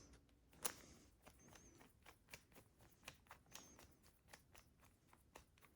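Faint, irregular light clicks and ticks of small carburetor parts being handled as the emulsion tube and main jet are fitted back into a snowblower carburetor.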